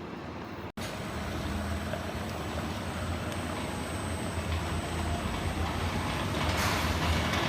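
PVC flexible duct forming machine running: a steady low mechanical hum with noise above it, after a sudden break less than a second in. It grows louder near the end.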